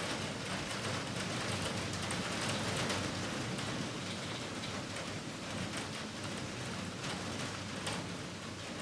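Heavy rain falling steadily, a dense even hiss with scattered patters of individual drops.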